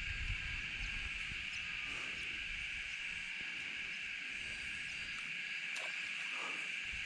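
Steady high-pitched drone of an insect chorus, with a low rumble in the first couple of seconds.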